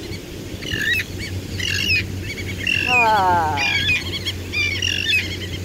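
Several birds calling loudly, a run of short chirping calls, with one longer falling call about three seconds in.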